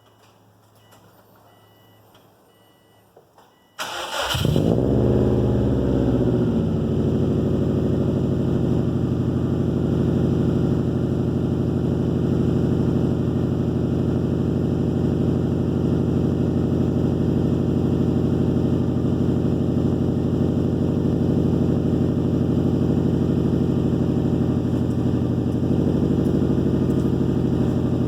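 Car engine with a Megan Racing aftermarket exhaust starting cold. About four seconds in, the starter cranks briefly and the engine catches with a rev flare that falls back within a couple of seconds. It then settles into a steady cold idle.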